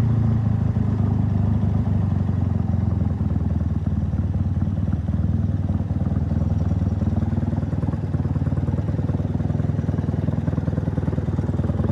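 1968 Triumph Bonneville 650 parallel-twin engine idling steadily, an idle that doesn't run entirely smoothly.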